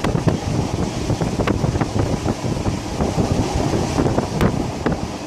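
Wind buffeting the microphone at a carriage window of a moving passenger train, over the train's steady running rumble, with a few sharp clicks.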